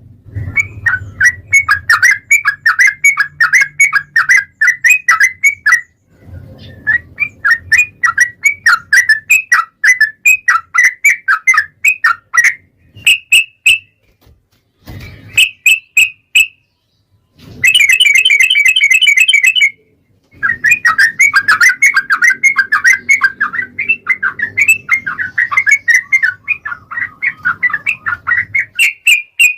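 Yellow-vented bulbul (trucukan) singing its long, rapid chattering song: quick runs of repeated notes, broken by short pauses. Near the middle comes a brief buzzier, steady trill before the chattering starts again.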